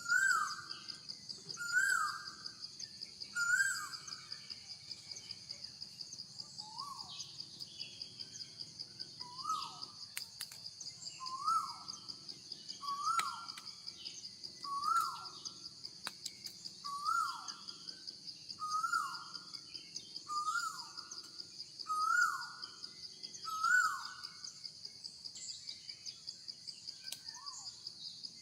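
A bird repeats a short, falling call about every two seconds, over a steady, high, pulsing insect drone.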